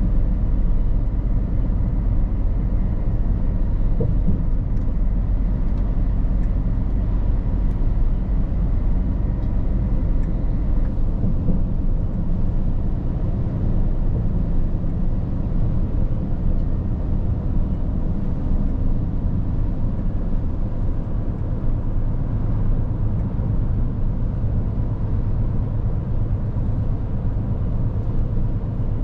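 Scania R450 truck's six-cylinder diesel engine and tyres making a steady low rumble on the move.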